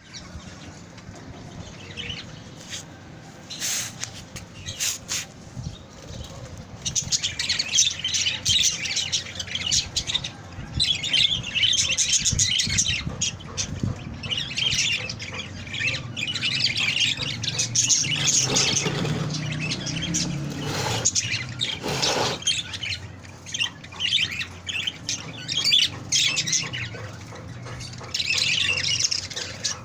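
Baby budgerigar giving harsh, raspy squawks and chirps in repeated bouts, typical of a parrot chick's begging calls. The calls grow busier after the first few seconds.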